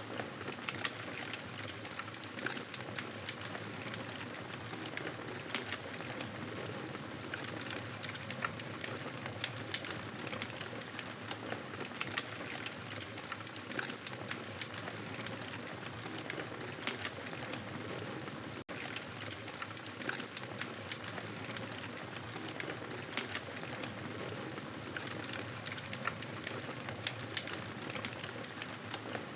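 Campfire crackling: a steady hiss dotted with many sharp pops and snaps, cutting out for an instant a little past the middle.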